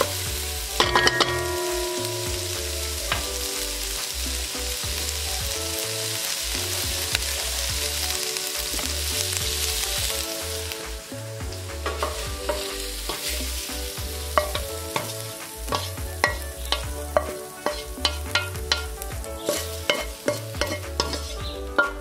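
Shrimp sizzling as they fry in oil in a wok, stirred with a wooden spatula; they have cooked dry and are ready to come off. The sizzle dies down about halfway through, and a run of sharp clicks and knocks follows.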